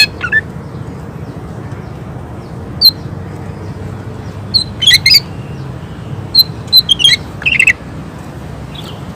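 Green leafbird (cucak ijo) giving sharp, short piercing calls: one at about three seconds, then quick clusters of rapid notes around five seconds and again from six and a half to nearly eight seconds, the shot-like 'tembakan' delivery, over a steady low hum.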